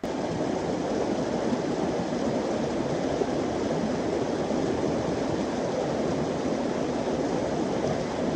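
Steady rush of flowing water, a continuous even roar such as a mountain stream or waterfall makes.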